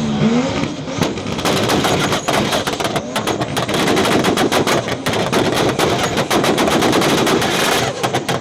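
A car's exhaust at high revs, firing a rapid string of sharp pops and bangs. The pops start about a second in and stop near the end.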